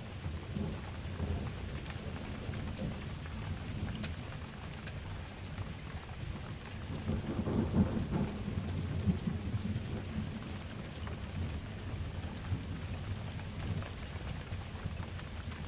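Steady summer rain falling, with a low rumbling underneath that swells for a couple of seconds about halfway through.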